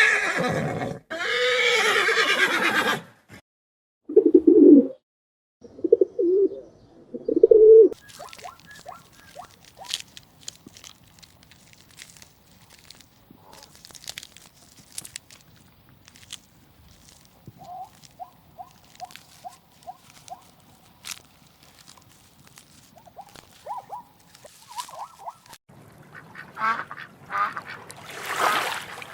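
A horse whinnying over the first few seconds, then scattered short animal calls and clicks, with a quick run of short calls about two-thirds of the way through. Near the end comes loud, rough quacking of ducks.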